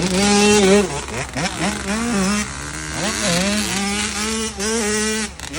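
Two-stroke dirt bike engine revving hard while riding, its pitch held high, dipping and climbing again with throttle and gear changes.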